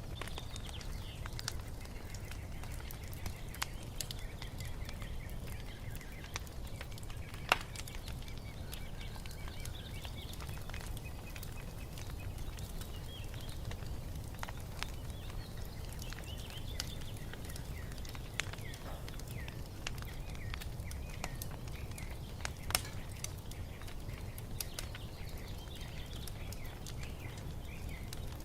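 Wood fire crackling, with scattered sharp pops over a low rumble; two pops, about seven seconds in and near twenty-three seconds, are the loudest. Birds chirp faintly in the background.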